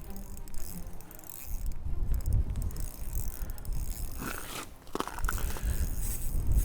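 Wind buffeting the microphone: a rough, gusting low rumble that rises and falls, with a couple of brief faint sounds about four and five seconds in.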